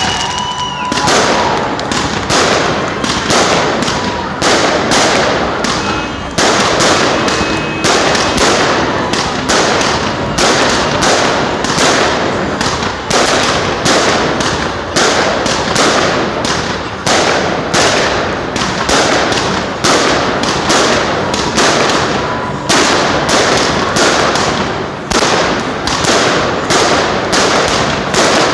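Fireworks going off as a rapid, unbroken string of loud bangs, about two a second.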